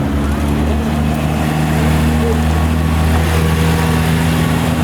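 A car engine running at steady, unchanging revs, deep and loud.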